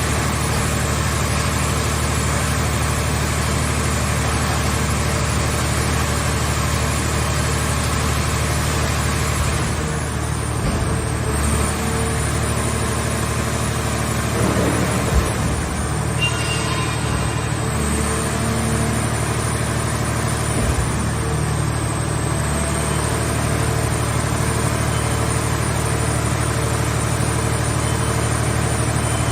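A scrap car baler's engine and hydraulic power unit running steadily with a constant low hum. It wavers in the middle stretch, with a short knock about halfway through.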